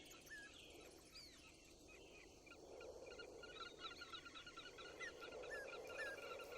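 Faint outdoor birdsong: scattered short chirping calls, joined about halfway by a rapid run of repeated notes, over a soft background hiss.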